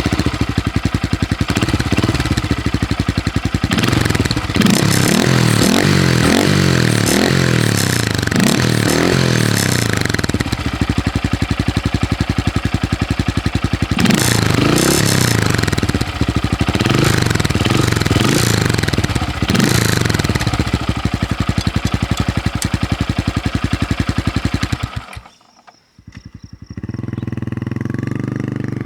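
2023 Honda Grom's 125 cc single-cylinder engine running through an aftermarket ZOOM high-mount exhaust with a baffle fitted, loud at idle. Two spells of quick throttle revs come about four seconds in and again about fourteen seconds in. The engine shuts off about 25 seconds in, and a quieter engine sound starts up near the end.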